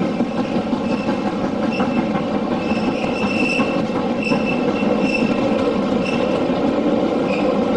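A railway train running along the track: a steady rumble of wheels on rail, with short high squeals coming and going through the middle, typical of wheel flanges squealing against the rail.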